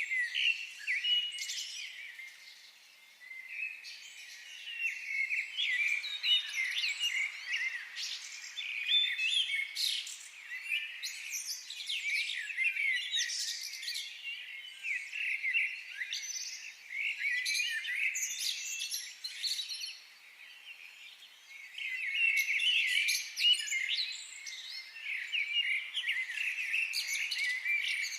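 Several songbirds singing and chirping at once, with quick overlapping trills and warbles, dropping off briefly twice before picking up again.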